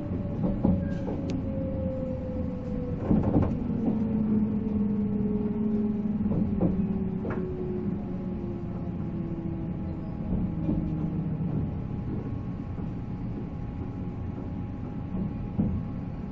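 Running sound inside a JNR 485-series electric train as it slows: a whine from the MT54 traction motors falls steadily in pitch over a low rumble, with scattered knocks from the wheels and car body.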